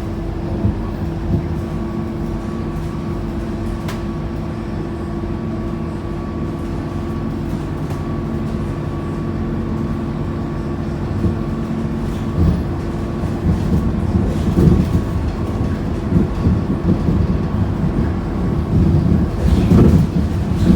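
Scania K230UB city bus heard from inside the cabin while on the move: its five-cylinder diesel drones steadily with a faint high whine over it. From about halfway, irregular knocks and rattles from the body and fittings join in.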